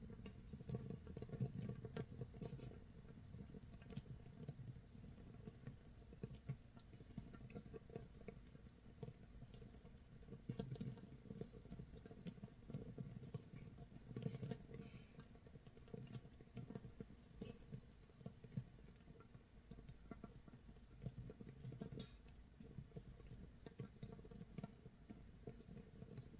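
Makgeolli starter mash (mitsul) fermenting in a crock, a faint, dense, irregular crackle of tiny pops like light rain or crackling firewood: carbon dioxide bubbles breaking at the surface of actively fermenting mash, 24 hours in.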